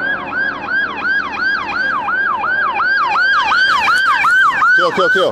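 Police siren on a rapid yelp, its pitch sweeping up and down about three to four times a second. A man shouts briefly near the end.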